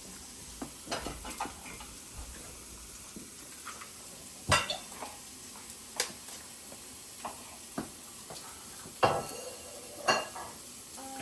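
Metal utensils clinking and scraping against a frying pan and dishes at irregular intervals, over a faint steady sizzle of eggs and meat frying.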